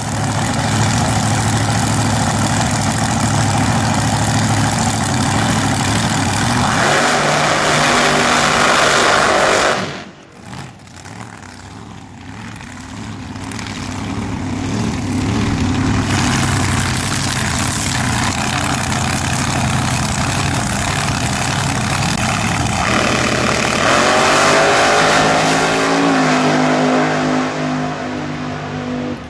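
Supercharged dragster engine running very loud and accelerating, twice over. In each run the pitch climbs, and the first run breaks off suddenly about ten seconds in.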